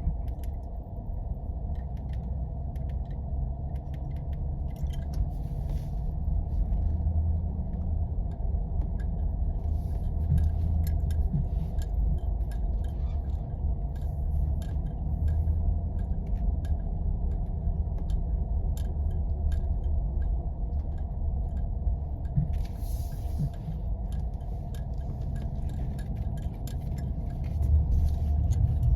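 4x4 driving on snowy back roads: a steady low rumble of engine and tyres, with scattered light clicks and rattles throughout and a brief hissing scrape about two-thirds of the way through.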